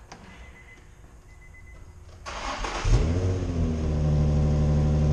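Nissan Z's V6 on its stock exhaust is cranked by the starter about two seconds in. It catches with a brief rev flare, then settles into a steady idle.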